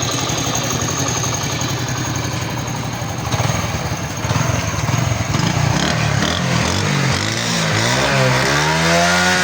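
Honda 125 motorcycle engine running steadily at first, then revved with the throttle from about four seconds in, the revs rising and falling several times, with a longer rise and fall near the end.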